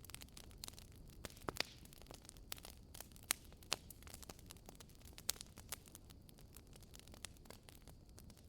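Wood fire burning in a fireplace, crackling with irregular sharp pops and a few louder snaps over a faint low hiss.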